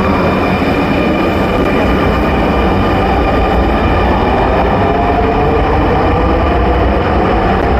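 Dhaka Metro Rail electric train running: a steady heavy rumble with high steady tones and a whine that slowly rises in pitch.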